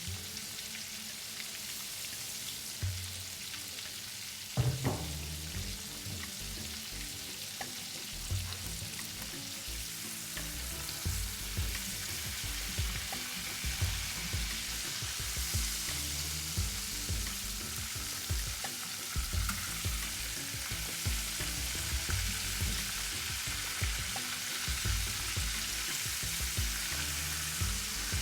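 Food frying in a pan with a steady sizzle. There is a sharp knock about four and a half seconds in, and soft low bumps come and go through the second half.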